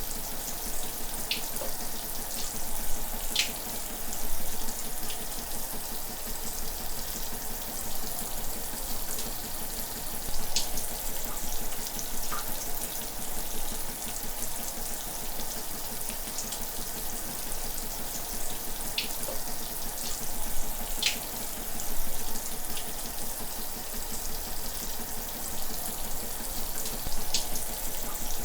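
Shower running: a steady hiss of falling spray, with a few brief louder splashes scattered through it.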